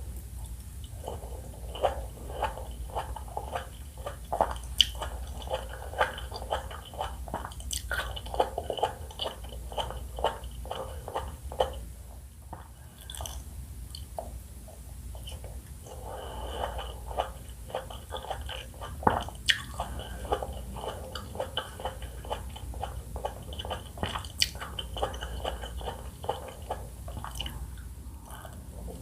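Close-miked chewing and biting of juicy pomelo segments: wet, squishy crackles of the juice sacs bursting, with a few sharper bites, and a short pause about halfway through.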